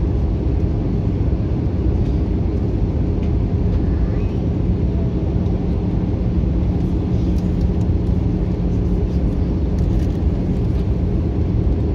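Steady cabin noise inside an Airbus A321-200 in flight: a constant low rumble of engines and airflow with a steady hum under it.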